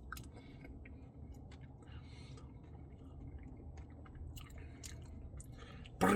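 A person chewing a cookie dough Blizzard with the mic close: soft, scattered wet mouth clicks and smacks. A hummed note begins right at the end.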